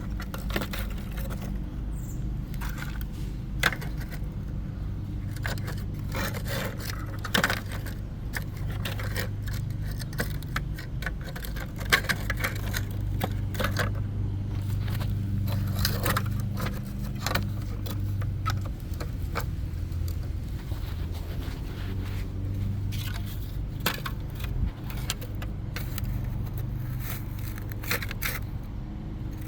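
Hands reassembling the pieces of a small homemade storm drain, with irregular clicks, clinks and scrapes of hard parts over a steady low hum.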